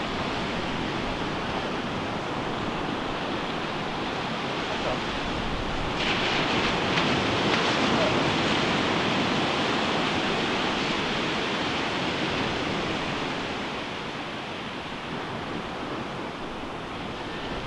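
Ocean surf on a sandy beach: a steady wash of waves, with a wave breaking about six seconds in that makes it louder and hissier for several seconds before it eases off.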